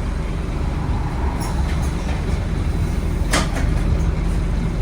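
Scania N270UD OmniCity bus's five-cylinder diesel engine running with a steady low rumble. A brief sharp clack cuts through about three seconds in.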